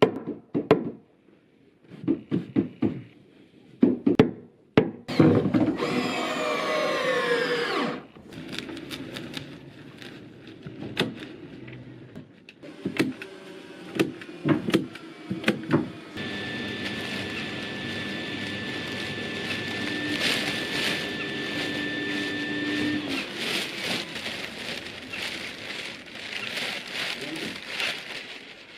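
Building-site work sounds: scattered knocks and taps, then a power tool whose loud whine falls in pitch over a few seconds. About halfway through, a power tool runs with a steady high whine under ongoing clattering.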